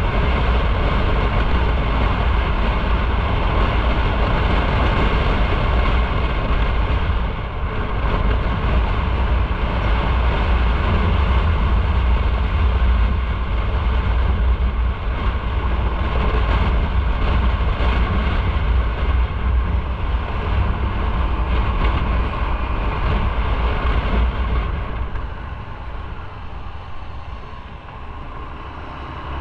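Motorcycle riding on the road: a steady engine note with heavy wind rumble and road noise on the microphone. The sound drops in level near the end.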